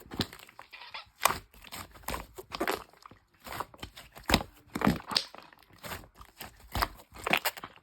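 Irregular crinkling and crunching noises, short strokes a few times a second with brief pauses.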